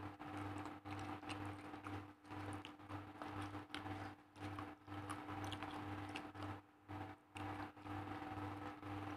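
Close-up chewing of a mouthful of rice and raw leaves (young mango, leunca and papaya leaves), with many small wet clicks and crunches. Under it runs a steady hum with a low throb pulsing about two to three times a second.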